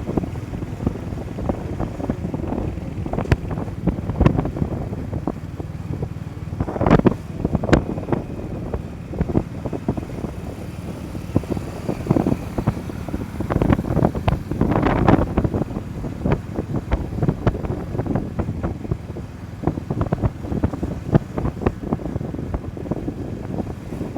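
Wind buffeting the microphone of a rider on a moving motorcycle, a steady low rumble broken by many irregular crackles and thumps.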